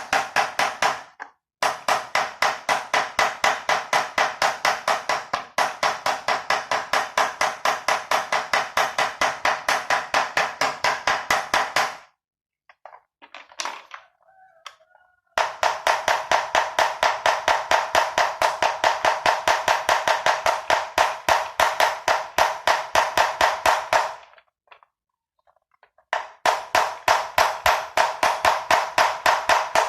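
A hammer striking metal in rapid, even blows, about four a second, each ringing briefly. It stops twice for a few seconds and picks up again at the same pace.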